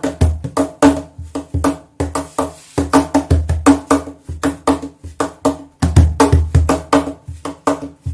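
A 71cajon 'The Oscar' cajon played by hand in a steady rhythm. Deep bass thumps alternate with sharp slaps that set its double snare chains buzzing.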